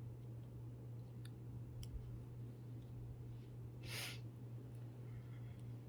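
Knitting needles clicking faintly as stitches are worked, over a steady low hum, with one short hiss about four seconds in.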